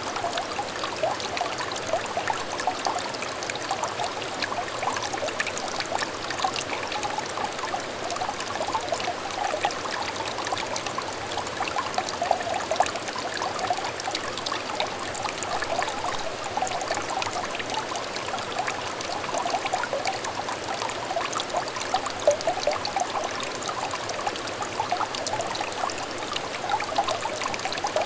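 A small stream of water trickling and burbling steadily, with many small gurgling splashes.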